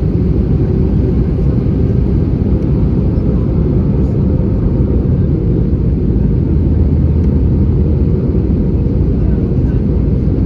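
Steady low rumble inside the cabin of an Airbus A320-214 in flight, the airflow and CFM56 engine noise heard from a window seat near the wing.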